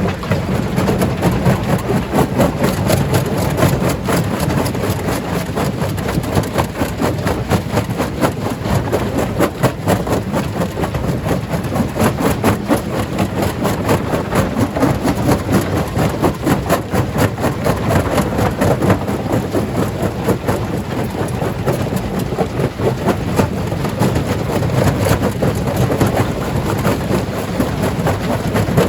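Stone crusher running and breaking rock: a steady heavy machine rumble with many rapid knocks and cracks of stone.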